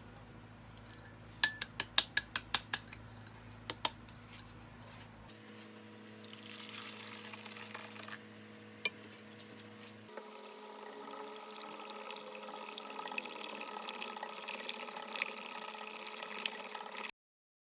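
Water running from a kitchen tap, a steady hiss that starts about halfway through and cuts off suddenly near the end. It is preceded by a quick run of about eight sharp clicks.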